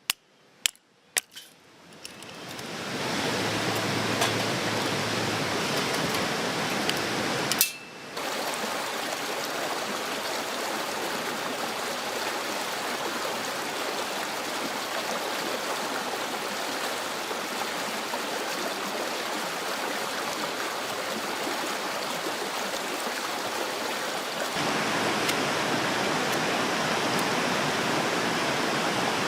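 A couple of sharp hammer-like knocks in the first second or so, then a steady rush of flowing stream water. The water sound breaks off briefly about 8 s in and is a little louder near the end.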